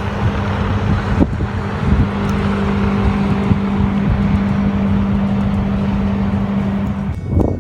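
A steady mechanical hum: a motor or engine running at constant speed, with one unchanging low tone over a rushing noise. It starts and stops abruptly, ending about seven seconds in.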